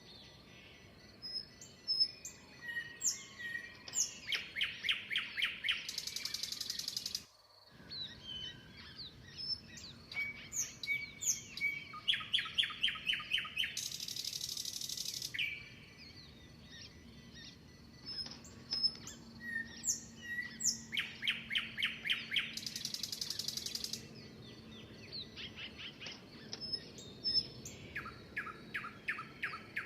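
Songbirds chirping and singing: a song of rapid repeated notes ending in a harsh buzzing note, repeated about every eight seconds, with scattered higher chirps in between.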